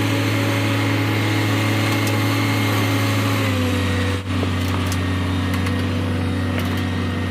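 Vehicle engine running steadily under way while towing, stepping down to a lower, even pitch about halfway through.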